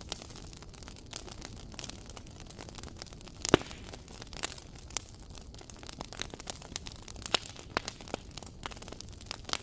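Wood fire crackling: frequent small pops and snaps over a low steady hiss, with one louder pop about three and a half seconds in.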